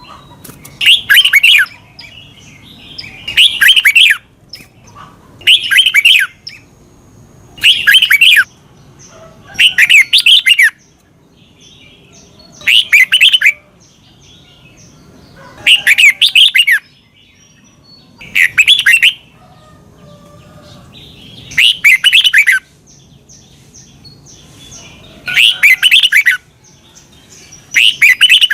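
Red-whiskered bulbul singing: short, bright, warbling song phrases repeated about every two to three seconds.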